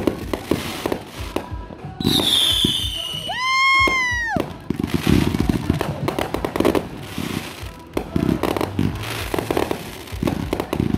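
Fireworks going off: a rapid series of cracks and pops. About two seconds in comes a falling whistle, and just after it a second, stronger whistle that rises and then falls for about a second.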